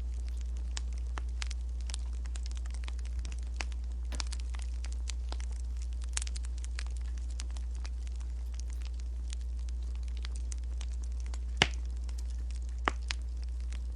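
Wood fire crackling with many small irregular snaps over a steady low rumble, and two sharper, louder snaps near the end.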